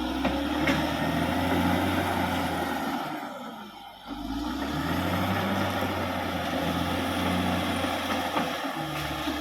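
Caterpillar D6R XL bulldozer's diesel engine working steadily. It drops away briefly about four seconds in, then picks back up.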